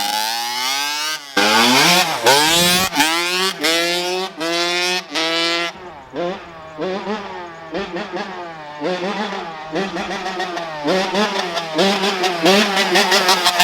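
Honda CR85 two-stroke dirt bike engine revving in short, repeated bursts, its pitch climbing and dropping back about every half second. It is loudest in the first half and softer from about halfway, as if moving away.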